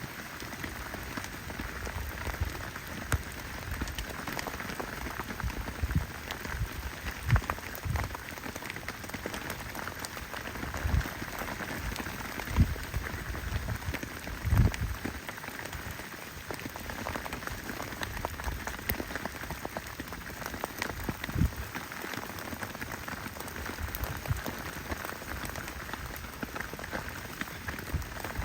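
Heavy rain falling on a tent: a steady patter, with scattered heavier drops landing as short thuds every few seconds.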